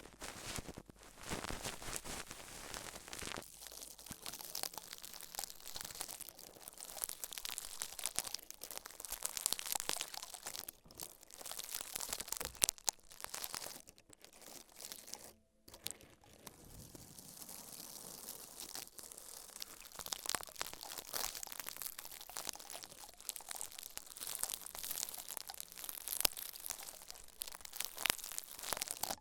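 Continuous close crinkling and crunching, a dense stream of small crackles, with a brief pause about halfway through.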